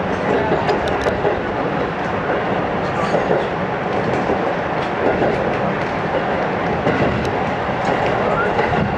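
JR 205 series electric commuter train running at speed, heard from inside the passenger car. A steady rumble of wheels on rail, with sharp clicks now and then as the wheels cross rail joints.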